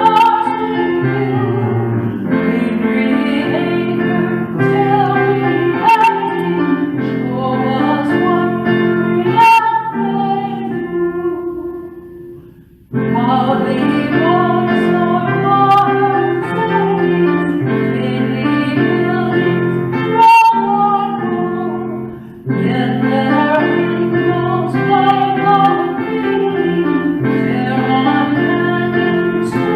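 A hymn: a woman singing a slow melody with instrumental accompaniment. The music fades out about twelve seconds in and cuts back in suddenly, then does the same again a little after twenty seconds.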